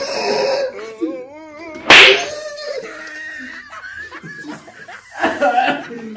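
A single sharp slap about two seconds in, with laughter and wavering voices around it.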